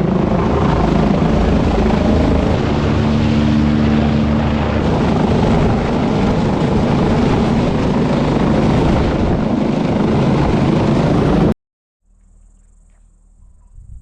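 Mountain rescue helicopter flying close by, its rotor and engine loud and steady. The sound cuts off suddenly near the end, leaving only faint sounds.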